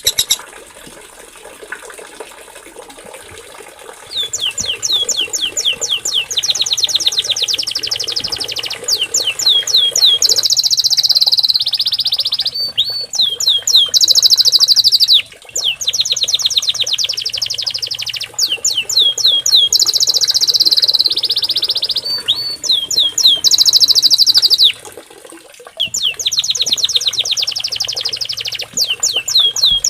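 Small songbird singing loud, repeated high phrases of rapid trilled notes mixed with quick downward-sweeping whistles. The song starts about four seconds in and breaks off briefly twice.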